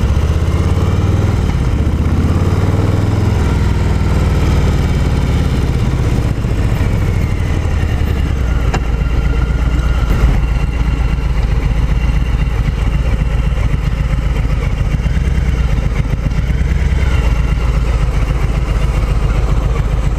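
Harley-Davidson Milwaukee-Eight 107 V-twin engine running through true dual exhaust pipes. Its pitch rises and falls for the first few seconds, then holds steadier.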